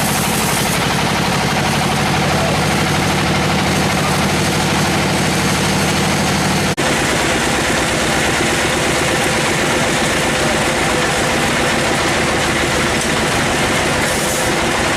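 Sawmill machinery running steadily with a heavy engine-like hum. It drops out sharply for an instant about seven seconds in, then carries on with a changed low hum.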